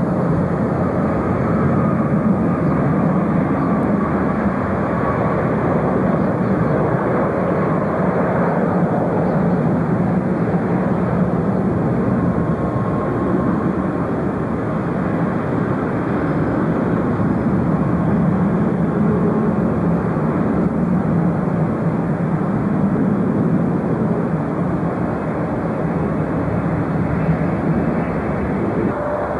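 Jet airliner engines running with a steady noise, a faint whine showing through in the first part.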